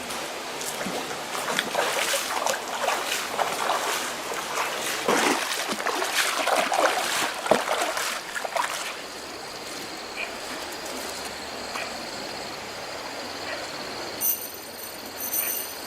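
Water splashing and sloshing in irregular bursts for about nine seconds, then settling to a quieter background with a faint steady high whine.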